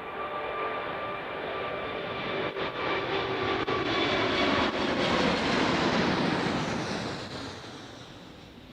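Emirates Airbus A380's four jet engines at departure thrust, a broad roar with a steady whine over it in the first half. The roar builds, peaks about five to six seconds in, then fades away as the aircraft passes.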